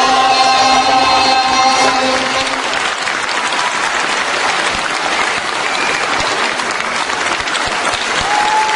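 A child's held sung note and its accompaniment end about two and a half seconds in, giving way to audience applause and cheering.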